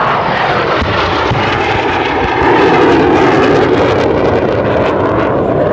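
F-100 Super Sabre's J57 turbojet running as the jet passes, a loud, steady noise that swells a little about three seconds in.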